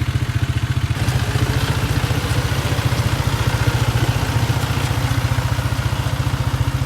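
Farm vehicle engine running steadily with a fast, even beat.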